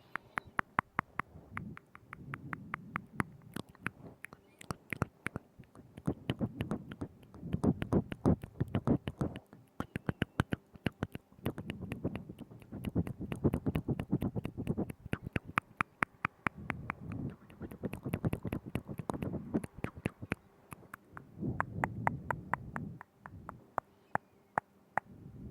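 ASMR mouth sounds made right at a binaural microphone: rapid wet clicks and smacks of lips and tongue, several a second, in bursts of a couple of seconds with short pauses between.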